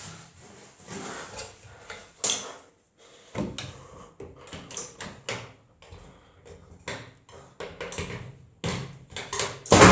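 Scattered clicks and knocks from handling things at a washing machine, with a louder knock just before the end.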